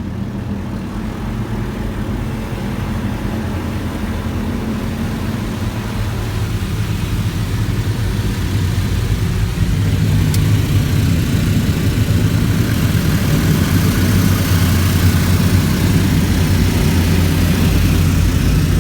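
High-pressure side blaster jets of a WashTec SoftCare 2 Pro touchless car wash spraying the car, heard from inside the cabin: a loud, steady rush of water over a low machine drone. It grows louder through the first two-thirds, then holds.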